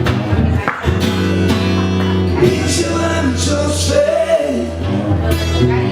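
Live band music with guitar and a steady bass line, and a voice singing over it.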